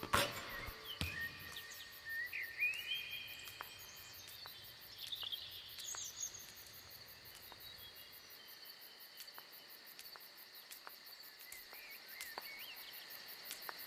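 Faint nature ambience: a steady high drone of crickets or other insects, with a few short chirping bird calls and scattered light ticks. A sharp click sounds right at the start.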